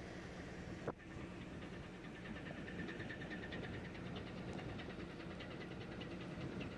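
Steady drone of a ship's engine with a low hum, and a sharp click about a second in; faint rapid ticking runs over the drone from about halfway through.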